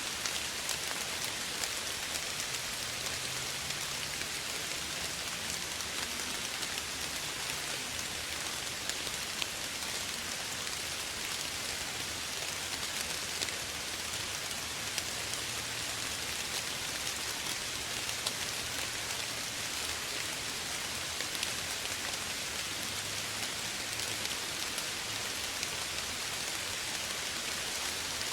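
Steady soft rain falling on a surface, a continuous hiss with many small drop ticks.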